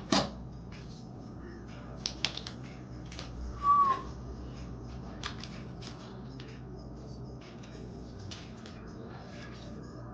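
Light clicks and scrapes of food being handled and buttered, with a short whistle-like tone, falling slightly, about three and a half seconds in.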